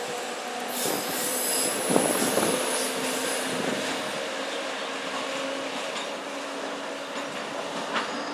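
NJ Transit push-pull train, pushed by an ALP-46A electric locomotive, rolling away along the track with its wheels squealing on the rails, fading as it recedes. A high-pitched squeal stands out about one to three and a half seconds in.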